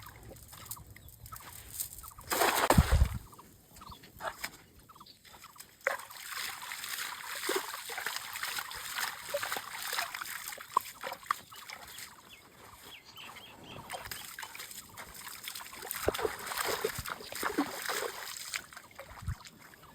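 Water splashing and trickling, with short irregular splashes throughout and one louder splash lasting under a second about two and a half seconds in.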